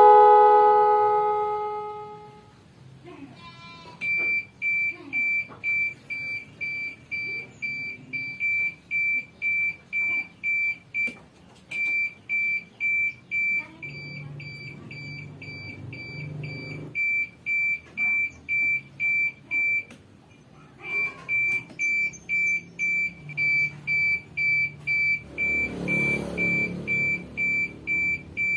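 Truck reversing alarm beeping about twice a second, with short breaks, after a horn blast that dies away at the start.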